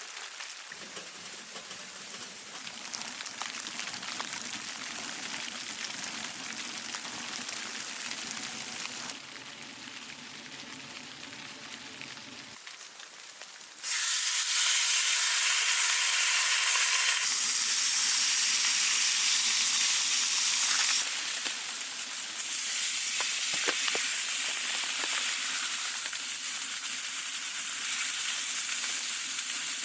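Food frying in a hot pan: a quieter hiss with faint crackles at first, then about halfway through a loud, steady sizzle starts suddenly and keeps going.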